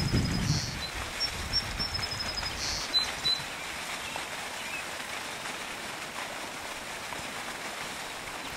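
Outdoor pasture ambience: a few short, high bird trills in the first three seconds over a steady faint hiss, with a low rumble in the first second.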